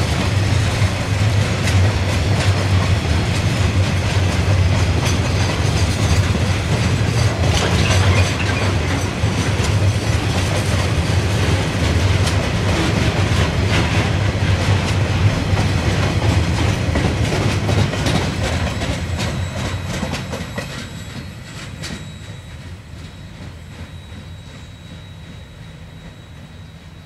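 Container wagons of a KiwiRail freight train rolling past, a steady rumble with wheels clacking over the rail joints. The sound dies away from about 18 seconds in as the last wagons pass and the train draws off.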